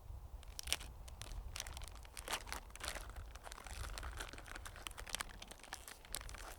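Close, irregular crinkling and crunching: many small sharp snaps packed close together, over a low rumble.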